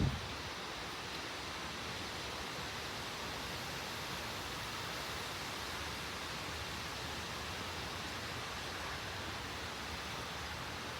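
Steady, even rush of thunderstorm rain.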